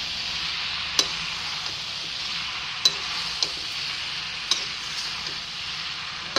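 Boiled pasta stir-frying in a metal pan with a steady sizzle while a metal utensil stirs it, clinking sharply against the pan about five times.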